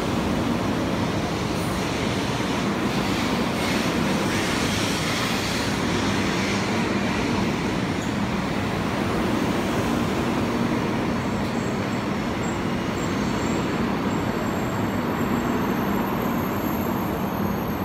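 Taiwan High Speed Rail 700T trainset rolling slowly past alongside the platform: a steady rumble of wheels and running gear with a low hum, and a faint high-pitched whine coming in about two-thirds of the way through.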